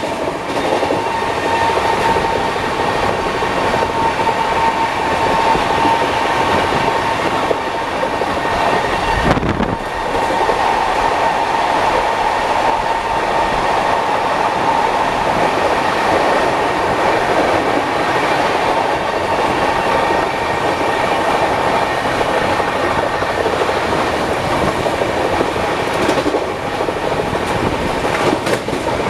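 Gatimaan Express passenger coach running at speed, heard from the open doorway: a steady rumble and clatter of wheels on the track with rushing air, and a steady whine running through it.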